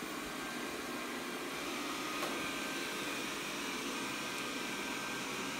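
Xiaomi Mi Robot Vacuum running, a steady whir of its suction fan and brushes with a faint high whine.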